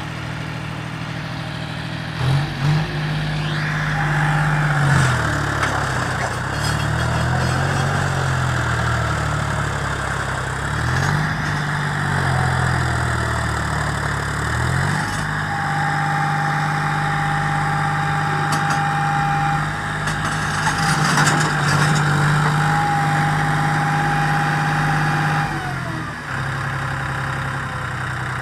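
John Deere 5055 tractor's diesel engine working hard. The revs rise about two seconds in, swing up and down for several seconds, hold higher for about ten seconds, then drop back near the end. A steady high whine sounds over the engine while the revs are held high.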